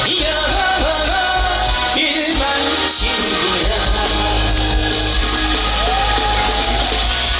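Live male vocal singing over a rock-style band arrangement with a steady bass beat, holding a long note about six seconds in.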